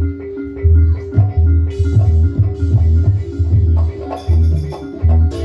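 Live East Javanese gamelan-style music for a kucingan dance: tuned metal mallet instruments repeating a short pattern over deep, regular drum beats, with cymbal splashes about two seconds and four seconds in.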